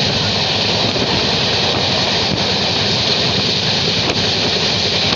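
Steady rushing noise of a moving passenger train heard at an open carriage window: the running of the carriage on the rails mixed with wind across the microphone.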